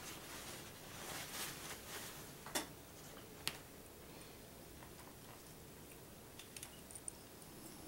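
Light handling noises with two sharp clicks, about two and a half and three and a half seconds in, and a few small ticks near the end: computer parts being handled and fitted.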